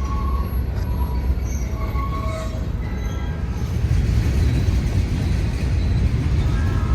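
Manifest freight train rolling past: a steady heavy rumble of wheels on rail, with short high squeals from the wheels, and a held squeal near the end.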